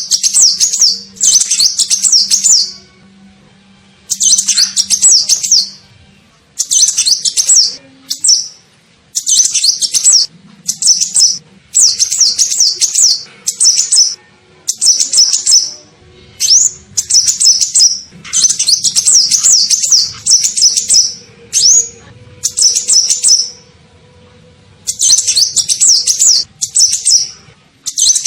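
Sunbird of the kind Indonesian birdkeepers call 'kolibri ninja' singing a lure call: rapid high twittering phrases, each a half second to two seconds long, repeated over and over with short pauses between.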